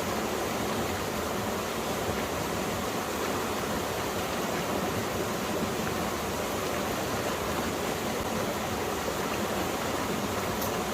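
Valley stream flowing, a steady even rush of water.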